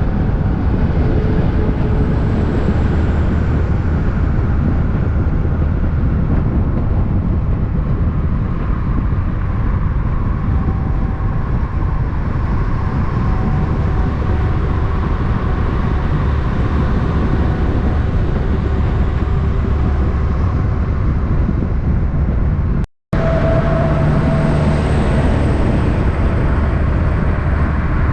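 Heavy trucks running on the road, a steady loud low-pitched diesel engine and traffic noise with no break in it apart from a split-second dropout about 23 seconds in.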